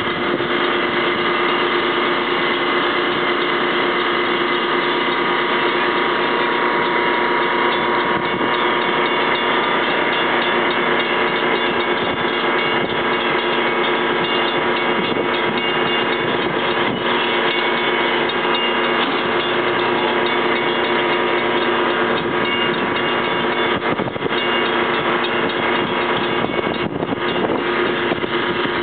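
Passenger cars of an excursion train rolling slowly past at close range: wheels clicking and rumbling over the rails, under a steady metallic ringing made of several held tones.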